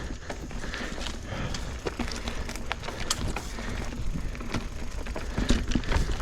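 Mountain bike being ridden over a rough trail: a steady low rumble of tyres on dirt with frequent clicks and rattles from the bike, loudest about five and a half seconds in.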